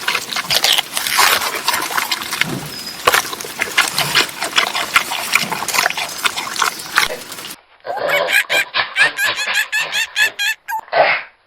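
Animal calls in two separate clips: first a dense, noisy run of calls and clicks, then, after a cut about eight seconds in, a series of higher pitched repeated calls ending in one short call.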